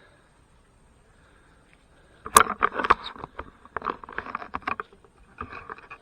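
Knocks and scrapes of wooden beehive boxes being handled, starting about two seconds in with one sharp knock followed by a rapid run of smaller clatters.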